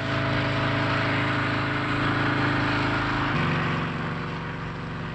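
Helicopter engine and rotor running steadily, swelling at first and then easing slightly, with a change in its tone about three and a half seconds in.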